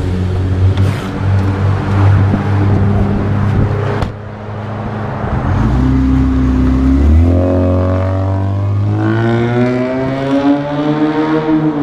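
Straight-piped Honda V6 running at low revs, then accelerating hard under a bridge: from about seven seconds in the exhaust note climbs steadily in pitch and drops away near the end.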